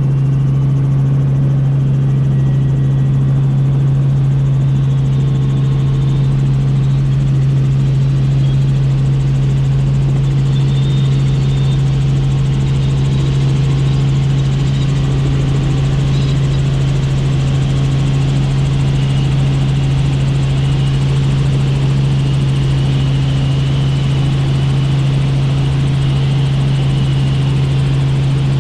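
Helicopter in flight, its rotor and engine running at a steady drone with a strong low hum.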